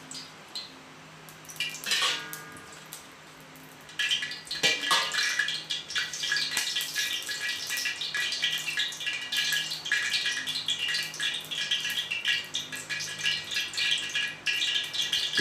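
Blended spice paste frying in hot cooking oil in a pan: a couple of metal clinks of a utensil on the pan, then a dense crackling sizzle that starts suddenly about four seconds in and carries on steadily.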